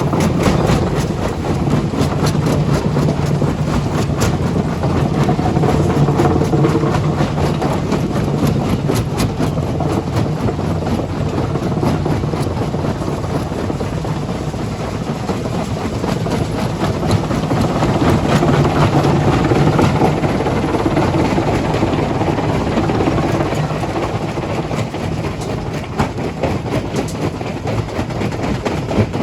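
Heavy diesel machinery running steadily under load, a low engine drone with frequent knocks and clatter of rock throughout.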